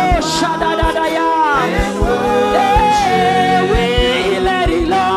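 Live gospel worship music: a singer's voice held and sliding over sustained keyboard chords, with a steady low drum beat.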